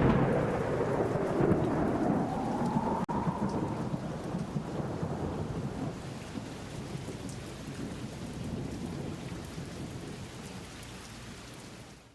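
Thunder rumbling with rain, loudest at the start and slowly fading away.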